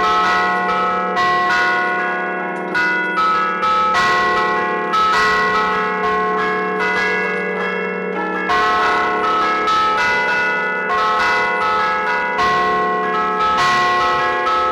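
Church bells played from a keyboard, struck by hammers ('a martellino') in a festive allegrezza: a quick tune of overlapping strikes, each note ringing on under the next.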